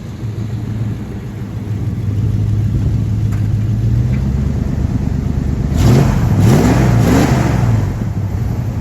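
1987 Chevrolet Blazer engine idling steadily, then revved three times in quick succession about six seconds in, each rev rising and falling back.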